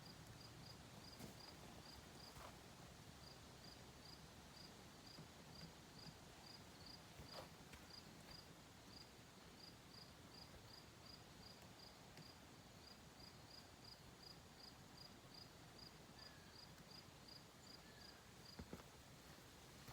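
Near silence outdoors with a cricket chirping faintly and steadily, about three chirps a second, until it stops near the end. A few faint knocks.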